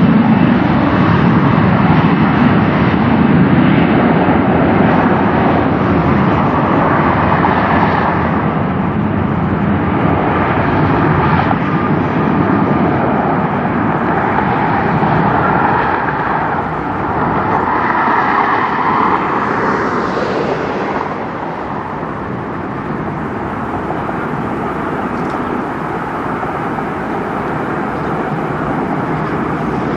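Jet airliner taking off, its engines at takeoff power making a loud, continuous jet rush that eases off a little about two-thirds of the way through.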